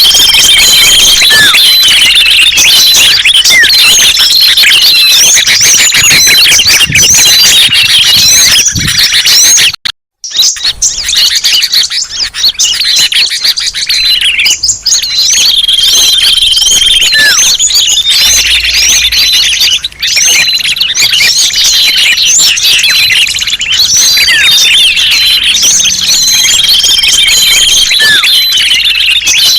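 A loud, dense chorus of many small birds chirping and twittering over one another: a looped bird-lure recording. It cuts out for a moment about ten seconds in, then resumes.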